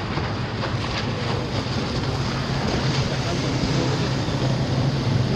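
Boat engine running steadily at sea, a low hum under the noise of water and wind buffeting the microphone.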